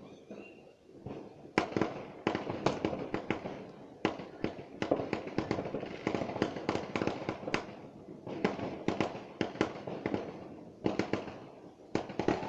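Fireworks and firecrackers going off in rapid succession: a dense barrage of sharp bangs and crackle that starts about a second and a half in, easing briefly twice before picking up again.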